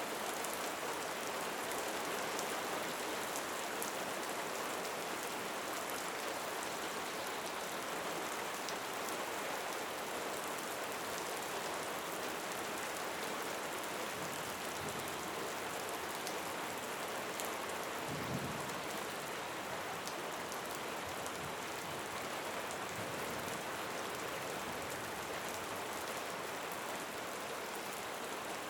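Steady rain falling, an even hiss flecked with fine drop ticks, and a single soft low thump about two-thirds of the way through.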